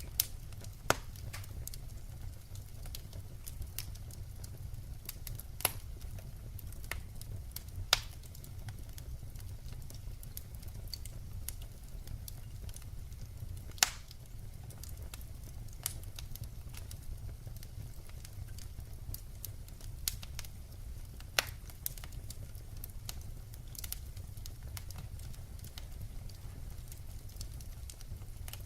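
Burning firewood crackling over a low steady rumble, with sharp pops every few seconds.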